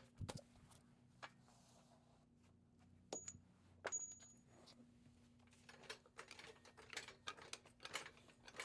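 Faint scattered clicks and metallic clinks of hand tools and metal parts being handled under a car. Two sharper clinks with a brief ringing come about three and four seconds in, and busier small clicking follows from about six seconds, over a steady faint low hum.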